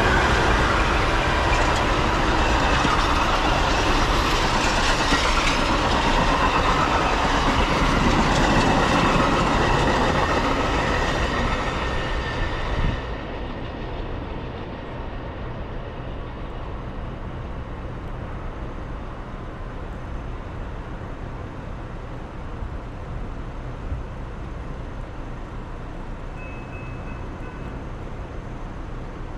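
Outbound Metra commuter train passing at speed on snow-covered track: a loud rush of wheels on rail with steady ringing tones. The sound cuts off suddenly about 13 seconds in, leaving a quieter steady low rumble.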